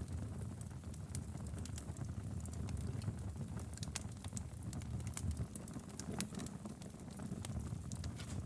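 Wood fire burning in a fireplace: a steady low rumble of flame with frequent small irregular crackles and pops.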